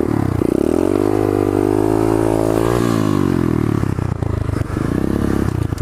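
Pit bike's small single-cylinder engine under throttle while riding, revving up in pitch for about two seconds, holding, then dropping as the throttle is eased, with wind noise rushing over the microphone.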